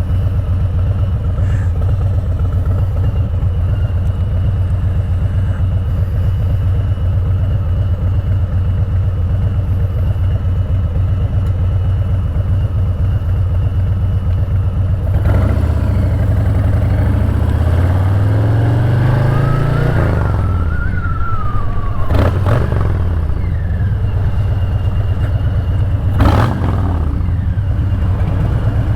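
Loud motorcycle engine running at low speed with a steady low pulsing note. About halfway through it revs up, the pitch rising and then falling back, and two sharp clicks come near the end.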